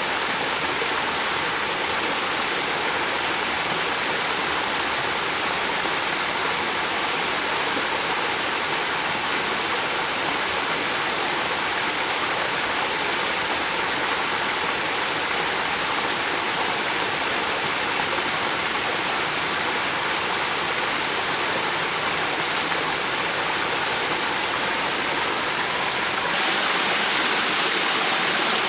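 River water flowing and rushing steadily, an even hiss with no pauses. Near the end it turns slightly louder and brighter.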